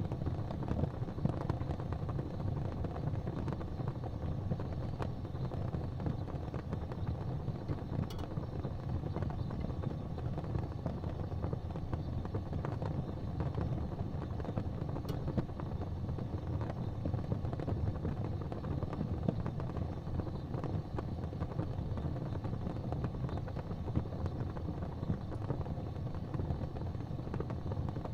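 Fire crackling in a fireplace: a steady low rumble of burning with dense small crackles, and a couple of sharper pops about 8 and 15 seconds in.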